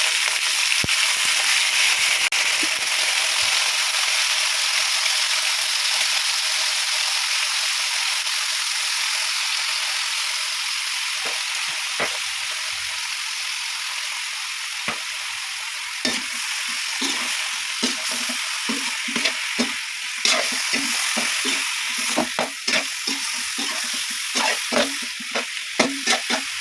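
Chicken sizzling in a hot frying pan: a steady hiss that slowly eases. From about halfway through, a spatula stirs the pieces, with repeated short knocks and scrapes against the pan.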